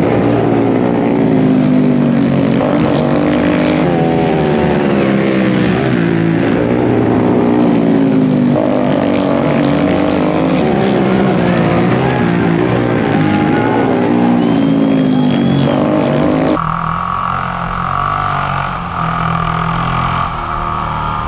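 Several flat-track racing motorcycle engines revving up and easing off as the bikes slide through the turns, their pitches rising and falling over one another. About three-quarters of the way through, the sound cuts to a single bike's engine heard from a camera mounted on the bike, steadier and duller.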